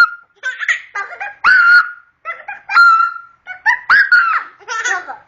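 A young child's high-pitched squealing laughter in repeated short bursts, some of them held on a steady shrill note.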